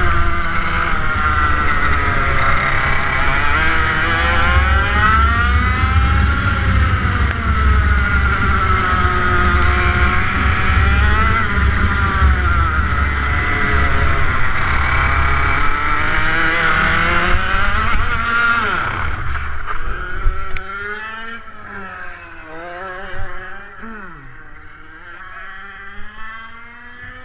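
TM K11B 100cc water-cooled two-stroke kart engine at speed, its pitch rising and falling every few seconds as it revs up and drops back. About twenty seconds in, it becomes much quieter, still rising and falling.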